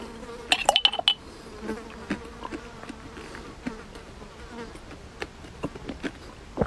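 Closed-mouth chewing and soft smacking of a cube of fermented bean curd (stinky tofu), with a cluster of sharp clicks between about half a second and a second in. A faint steady insect buzz runs under it for the first few seconds.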